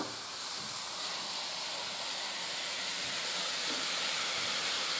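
Spaghetti squash and speck frying in a steel pan on a wood-burning stove top: a steady sizzle that grows slightly louder, with wooden spatulas stirring through it and a brief knock at the start.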